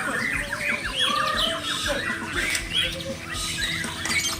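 Many caged songbirds singing at once in a dense chorus of overlapping chirps, trills and whistles. A faint steady low hum joins about halfway through.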